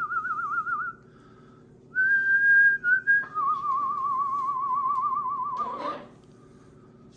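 Long whistled notes with a fast warble: a wavering whistle that stops about a second in, a steadier higher note, then a long lower wavering whistle that ends in a short noisy rasp about six seconds in.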